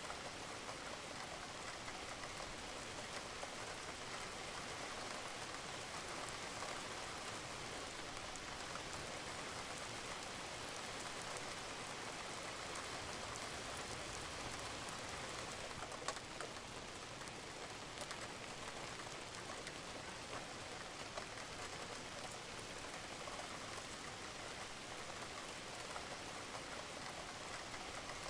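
Steady rain falling on a roof, with scattered individual drops ticking through it and one louder drop about sixteen seconds in.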